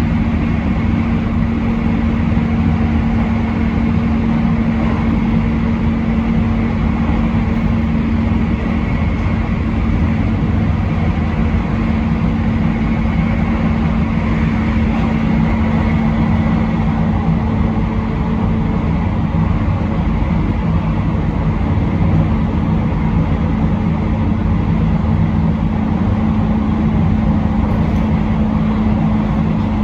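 Train running steadily along the line, heard from inside near the front: an even rumble of wheels on rail with a steady hum underneath.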